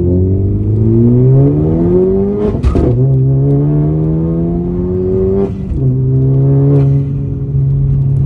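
Turbocharged 1.5-litre four-cylinder of a 10th-generation Honda Civic Si, breathing through a front pipe, downpipe and race-muffler catback, heard from inside the cabin with the windows up during a hard pull. The engine note climbs, breaks off at an upshift about two and a half seconds in, climbs again through the next gear, drops at a second shift about five and a half seconds in, then holds steady.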